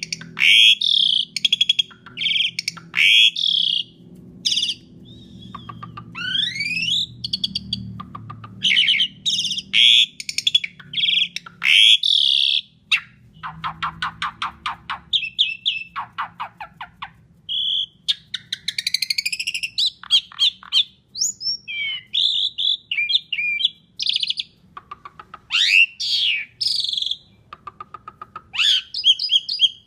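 Asian pied starling (jalak suren) singing without pause: a varied run of loud, harsh whistles and rising sweeps. Partway through, the song is broken by a fast rattling series of clicks.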